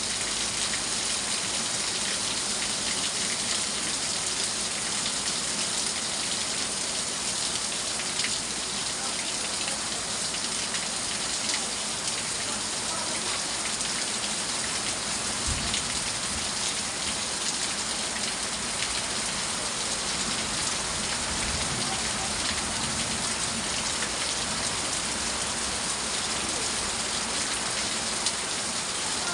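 Steady rain falling, an even, unbroken hiss of drops hitting surfaces.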